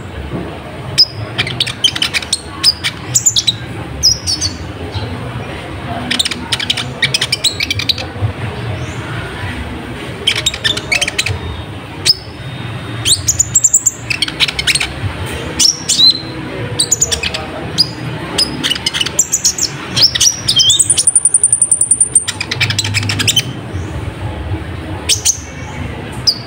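A kolibri ninja (a sunbird) singing in quick bursts of high, thin chirps and twittering trills, with one long high whistled note about 21 seconds in.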